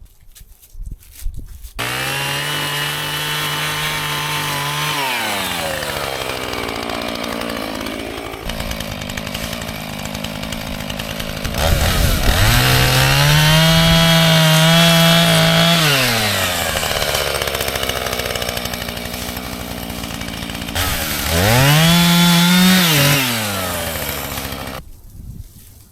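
Two-stroke chainsaw catching about two seconds in at high revs, dropping back to idle, revved up twice more, then shut off near the end.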